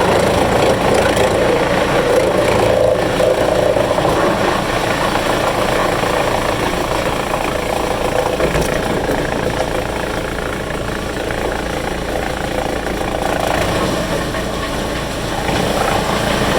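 Wood chipper's engine running steadily, a little quieter in the middle and louder again near the end.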